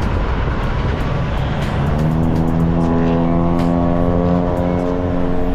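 Semi-truck cab noise: a continuous low engine and road rumble, joined about two seconds in by a steady droning hum that holds.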